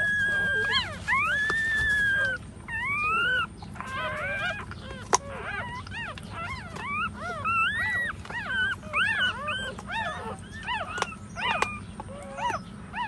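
Young puppies whining and squealing: two long, high, steady whines in the first couple of seconds, then many short high cries that rise and fall, often overlapping.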